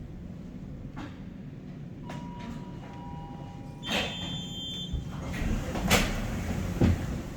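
Wellington Cable Car running with a steady low rumble. A steady squealing tone comes in about two seconds in, joined by a second lower one, and both stop about four seconds in as a brief high ringing tone sounds. Knocks and clattering then grow louder near the end.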